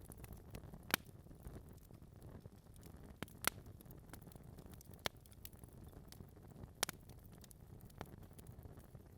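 Wood fire burning in a fireplace: a low rushing of flames with scattered sharp pops and crackles from the logs, the loudest about a second in, near the middle, and near the end.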